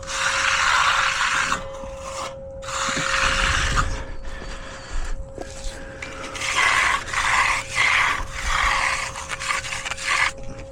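Steel trowel sweeping over fresh concrete as the slab is finished: a long scraping stroke, a pause, another, then a run of shorter, quicker strokes in the second half.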